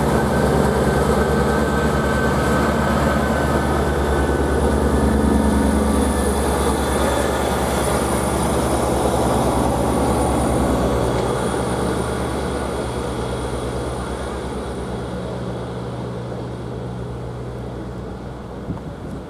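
East Midlands Railway diesel multiple unit departing, its underfloor diesel engine running steadily with a faint high whine, slowly fading over the second half as it pulls away.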